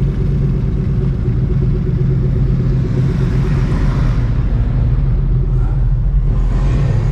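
Car engine running steadily with a low rumble, with a hiss that swells and fades around the middle.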